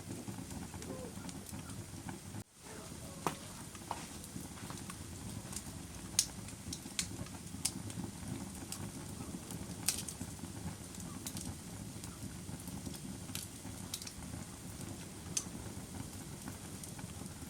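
Wood campfire burning: a steady low rush with sharp, irregular pops and crackles, roughly one every second or two.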